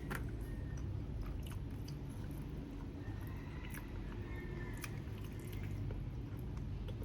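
A person chewing food close to the microphone, with scattered small wet mouth clicks, over a steady low hum.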